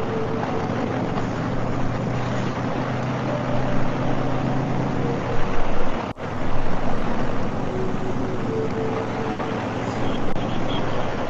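Harley-Davidson V-twin motorcycle engine running steadily at road speed, with wind rushing over the microphone. The sound drops out briefly a little past halfway, then resumes.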